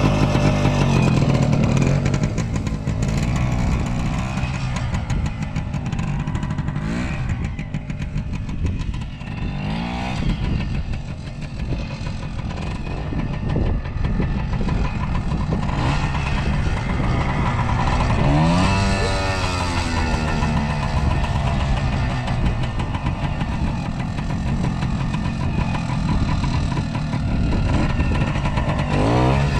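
1976 Kawasaki KT250 two-stroke single-cylinder trials motorcycle being ridden, the engine running at low to middling revs and rising and falling in revs several times, with a clear blip up about two-thirds of the way through and another at the end.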